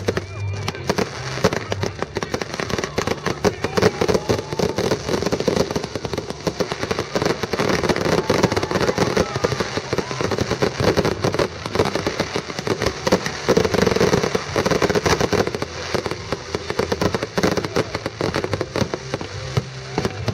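Fireworks display: a dense, unbroken run of bangs and crackling from many shells bursting, several every second.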